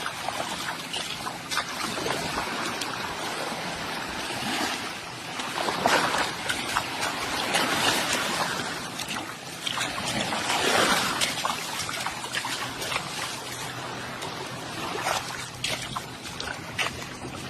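Wind rushing over the microphone with water washing and splashing, swelling in several surges.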